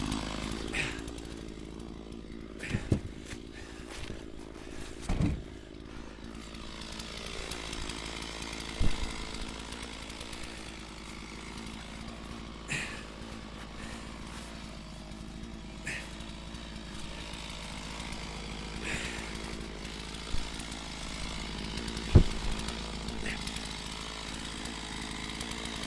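Stihl MS460 chainsaw idling steadily, with several heavy thumps of firewood rounds being handled and loaded, the loudest about 22 seconds in.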